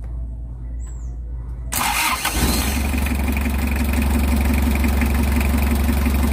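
Mazda R2 four-cylinder diesel engine started cold after glow-plug preheating: the newly cleaned and refitted starter cranks it for well under a second, about a second and a half in, and it catches at once and settles into a steady idle.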